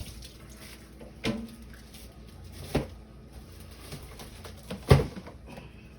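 Three separate knocks of things being handled in a kitchen, about a second and a half apart, the last one the loudest.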